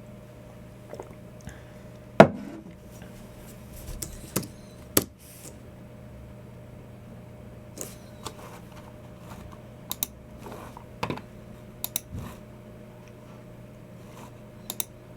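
Sparse, separate clicks from a Logicool MX Keys Mini keyboard and a Logicool G304 mouse: single key presses and clicks, some in quick pairs, with the loudest about two seconds in. A faint steady hum runs underneath.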